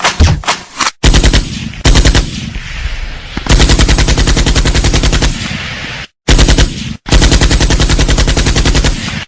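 Machine-gun fire: long bursts of rapid automatic shots, several bursts broken by abrupt cuts to silence, the way spliced sound-effect clips sound. One burst a couple of seconds in trails off with echo.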